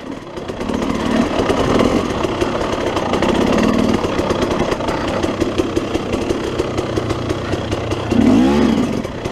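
KTM 300 two-stroke single-cylinder dirt bike engine running steadily on the trail, with one quick rev up and back down near the end.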